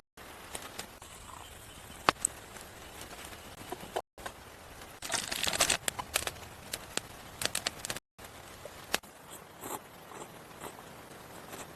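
Sharp snaps and crackles over a steady soft hiss, with one loud snap about two seconds in and a dense burst of crackling and crunching about five seconds in. The sound cuts out completely for a moment twice.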